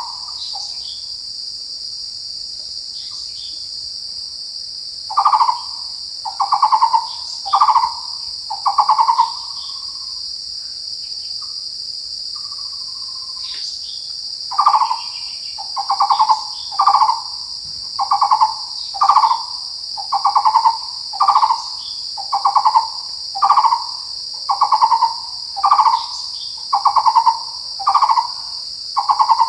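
Taiwan barbet calling: short, rapidly pulsed notes at one low pitch, repeated about once a second, with two pauses and then a steady run through the second half. Underneath, insects keep up a continuous high-pitched buzz.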